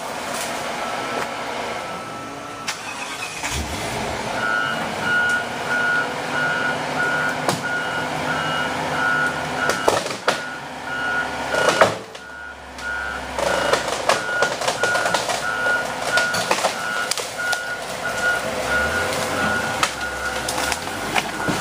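A heavy vehicle's reversing alarm beeping steadily, nearly two beeps a second, over its engine running. It starts about four seconds in, and a few sharp knocks and clanks break through.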